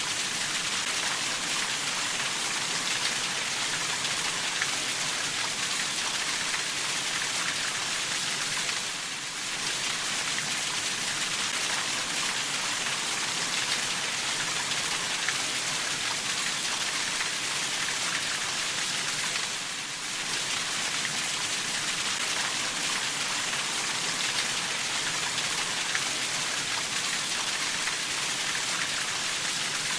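Steady rain falling: a dense, even hiss of many drops with no thunder. It dips briefly twice, about ten seconds apart.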